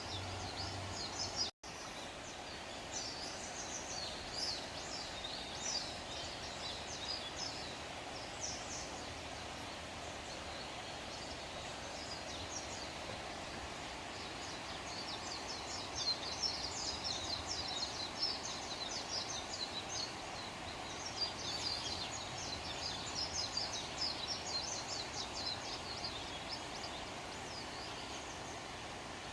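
Outdoor ambience: a steady background hiss with repeated clusters of short, high-pitched chirps, busier in the second half, and a brief dropout about a second and a half in.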